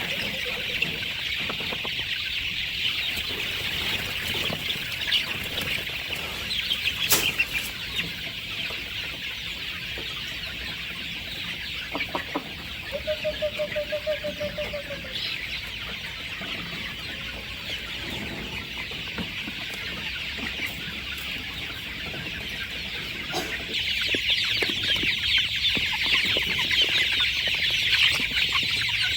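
Chickens clucking and calling, over a dense high-pitched chirring that gets louder near the end. About halfway through one bird gives a quick run of pulsed calls.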